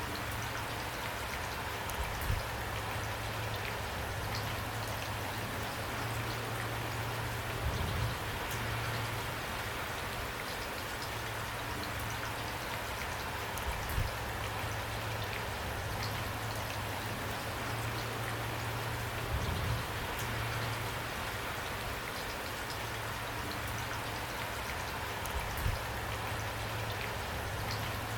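Steady rainfall, an even hiss of many drops, with a low dull thud about every six seconds, five in all.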